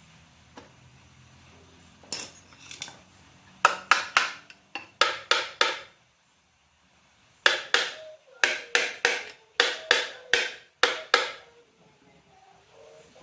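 Hammer striking metal in two runs of sharp, ringing blows, about ten each at a few blows a second, with a short pause between.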